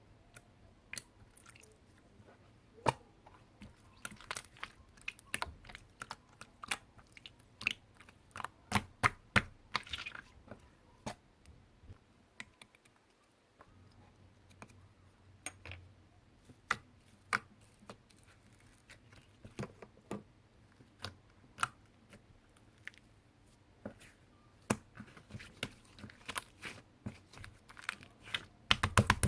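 Slime being squeezed and poked by hand, making irregular crisp clicks and small wet pops, with a brief lull about halfway.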